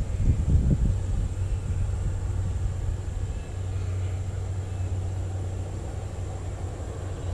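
Low rumble of wind buffeting the microphone, gusty in the first second and then steadier, with a faint thin high whine underneath throughout.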